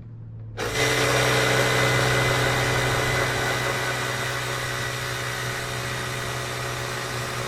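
Air compressor switching on about half a second in and running steadily, a hum mixed with hiss, while it inflates a dirt bike's new rear tire to seat the bead.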